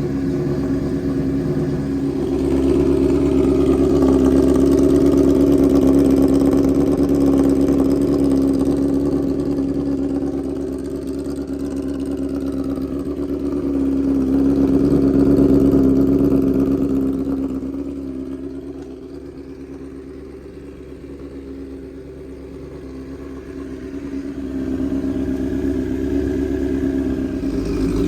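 2007 Honda CBR1000RR's inline-four running at a steady idle through a straight pipe, shortly after a cold start. The pitch holds level, while the loudness swells and falls slowly and is lowest about two-thirds of the way through.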